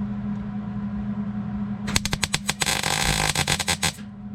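Wire-feed welder laying a tack on a sheet-steel floor patch. About two seconds in the arc starts with a few sputtering pops, then crackles steadily for about a second and a half before stopping.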